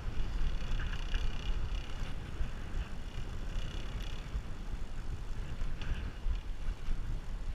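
Wind buffeting the microphone of a moving bicycle rider: a steady low rumble with faint hiss above it.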